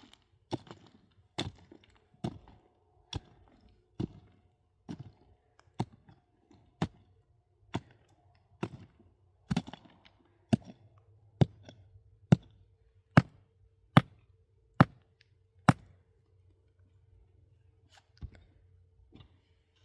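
Repeated blows of a hand tool striking hard material, a little under one a second and growing louder, about eighteen in a row, then a pause and two lighter strikes.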